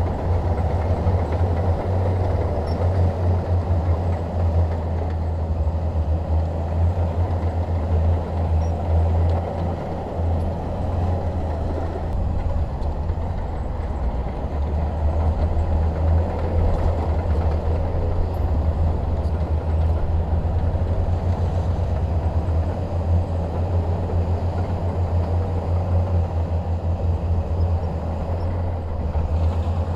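Komatsu D21P bulldozer's diesel engine running steadily, a continuous low drone that swells slightly now and then.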